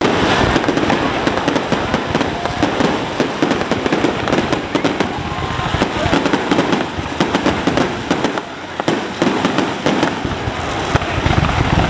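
Fireworks finale: a loud, continuous barrage of many overlapping bangs and crackles from bursting fireworks.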